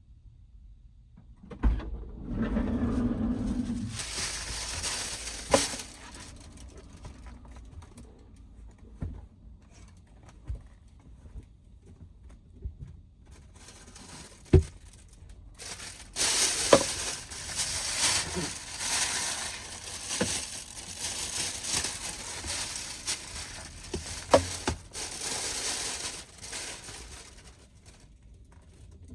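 Rustling and crinkling from things being handled at close range, in two long spells, with scattered sharp knocks and clicks.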